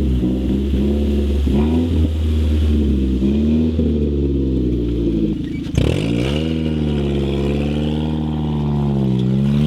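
Ford Focus engine revving under acceleration, its pitch climbing and dropping back several times. About six seconds in there is a sharp break, then a slower wavering rise and fall.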